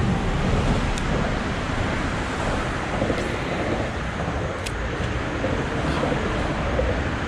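Steady outdoor background noise: a low rumble with a hiss over it and a few faint clicks.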